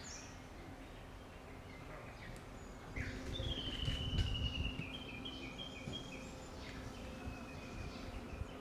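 A wild bird singing over a faint outdoor background. About three seconds in comes a high, slightly falling trill, followed by a string of short repeated notes.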